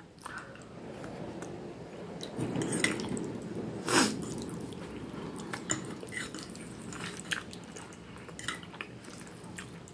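Close-miked chewing of pasta and meatballs in tomato sauce: wet, squishy mouth sounds, with scattered light clicks of knife and fork against the plate and one sharper click about four seconds in.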